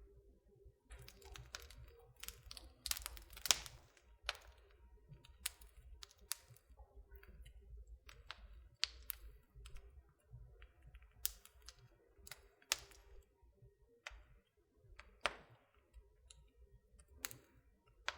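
Wood fire burning in a fireplace, crackling with irregular sharp pops and snaps over a soft low rumble of the flames. The snaps come thickest in the first few seconds, with the loudest pop about three and a half seconds in.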